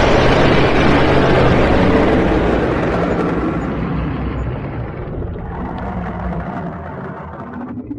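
Dragon sound effect: a long, rough, noisy blast over a low rumble, loudest at the start and fading slowly.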